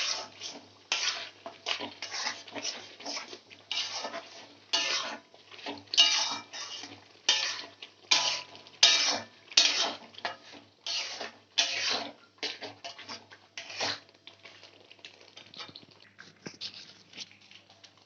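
A metal spoon scraping and clinking in a cooking pan as yogurt, cashew-poppy paste and chicken are stirred together, about one or two strokes a second. The strokes grow fainter and sparser over the last few seconds.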